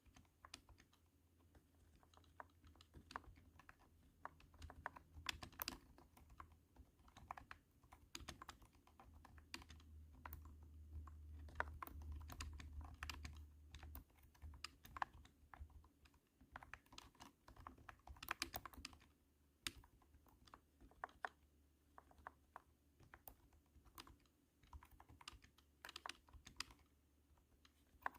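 Typing on a cat-shaped keyboard: irregular runs of thunky keystrokes, faint, with a low hum swelling in the background around the middle.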